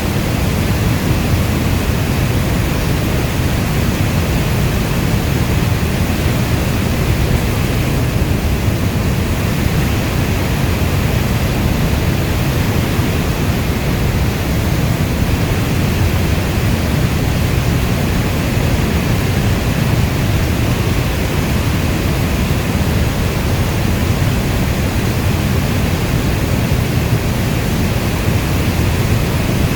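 Steady heavy rainfall: a dense, unbroken rush of rain, deep and even, with no single drops, thunder or other events standing out.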